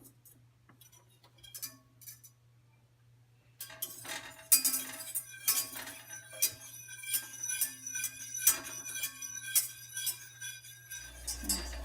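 A metal whisk stirring water in a pot, its wires clinking quickly against the pot's sides so that it rings. It starts as a few scattered taps, then becomes steady, fast whisking from about four seconds in. A low hum comes in near the end.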